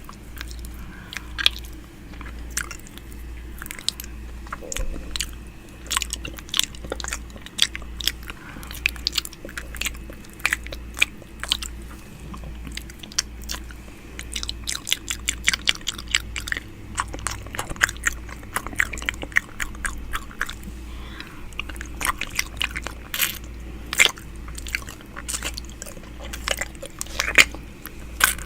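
ASMR 'ear eating' mouth sounds made close against a microphone: a steady stream of irregular wet clicks, smacks and nibbling noises, over a low even throb that pulses a little more than once a second.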